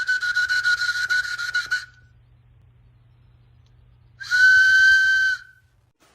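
A steady high whistle tone sounds twice: a longer one with a fast flutter, then, after a pause of about two seconds, a shorter and louder one about four seconds in.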